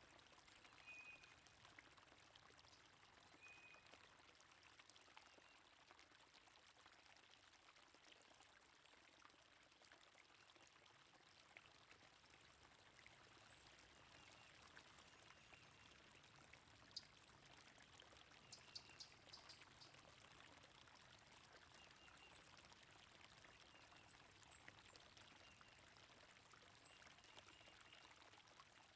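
Faint, steady flow of running stream water, with a few short, faint high bird chirps scattered through it.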